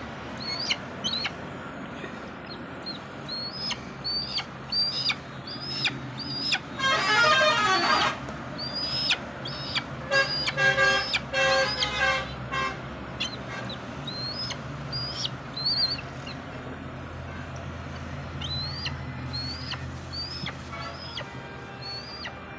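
A young eagle giving repeated high, rising peeps, about two a second, begging for food while it is fed pieces of chicken. A horn-like tooting sounds twice in the background, about seven and ten seconds in.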